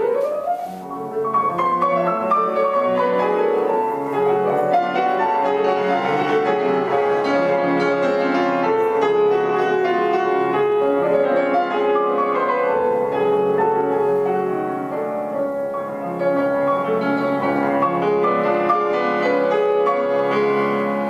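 Solo piano playing classical music: a quick upward run of notes at the start, then flowing chords and melody.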